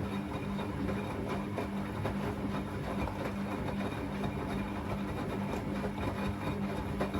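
Beko WA 1050 washing machine running, its motor giving a steady hum over the rumble of the turning drum.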